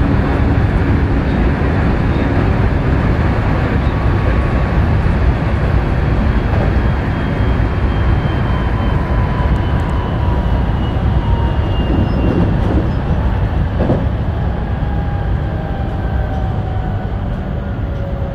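Electric commuter train running, heard inside the driver's cab: a steady rumble of wheels on rail under the traction motors' whine, which falls slowly in pitch as the train brakes into a station.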